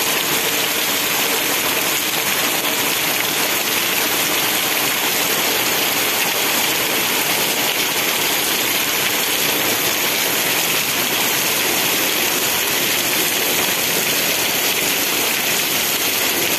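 Heavy rain falling steadily on a wet dirt street and tiled pavement, a dense, even hiss.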